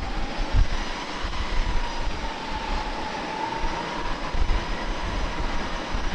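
Jet airliner engines running at idle: a steady whine that rises slightly through the middle and eases back, over a broad rush of jet noise and an uneven low rumble.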